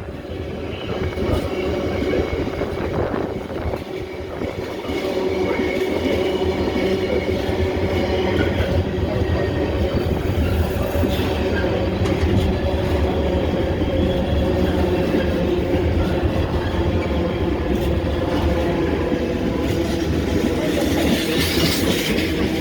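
A train running on the rails: a steady rumble with a continuous hum and some clickety-clack, getting louder about five seconds in.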